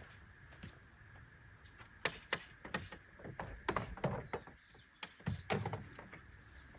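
Irregular clicks and knocks of solar panel cable connectors being handled and fitted together, clustered in the middle few seconds, over two faint steady high tones.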